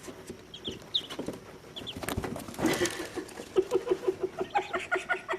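One-day-old Muscovy ducklings peeping: thin, high peeps in the first couple of seconds, a patch of scratchy rustling and clicks, then a quicker, regular run of lower calls toward the end.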